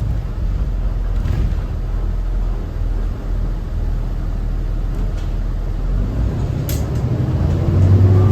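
Cummins ISB 6.7 diesel of a Thomas Saf-T-Liner C2 school bus heard on board, a steady low rumble with a few light rattles; near the end a rising tone comes in and the engine grows louder as the bus accelerates.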